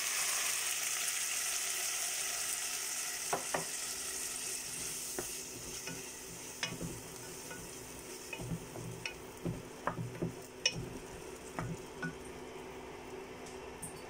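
Mashed cooked toor dal sizzling as it goes into the hot oil of the bagar (tempering) with fried onion and red chillies. The hiss is loudest at first and fades over the first five seconds or so. A wooden spatula stirs the dal, with short knocks and scrapes against the nonstick pot.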